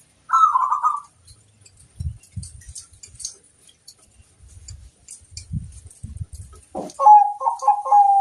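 Zebra dove (perkutut) singing: a short warbling coo just after the start, then, after some low thumps, a quick run of pulsed coos near the end.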